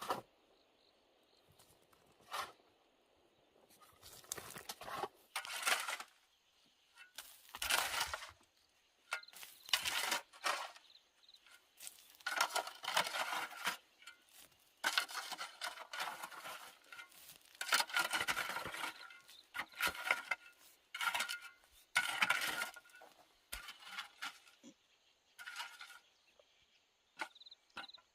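Irregular scrapes, knocks and clinks of hand work, in bursts of varying length, over a faint steady high buzz of insects.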